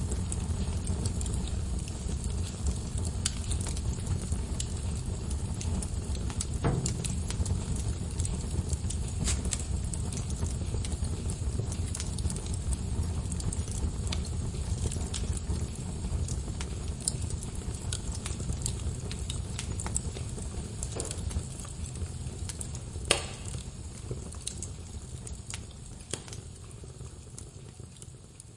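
Log fire burning in a fireplace: a steady low rumble of flames with scattered crackles and pops, one louder snap about three-quarters of the way through. The sound fades down near the end.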